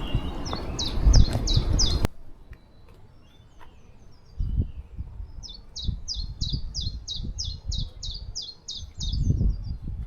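A songbird singing rapid series of repeated high notes: a short burst in the first two seconds, then a longer run of about fourteen notes in the second half. Wind rumbling on the microphone under the first two seconds cuts off suddenly, and scattered low wind thumps follow.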